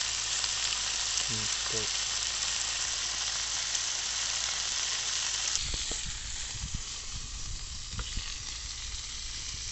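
Chicken frying in oil in a pan, a steady sizzle. About halfway through the sizzle eases and some low knocks and rumbles come in.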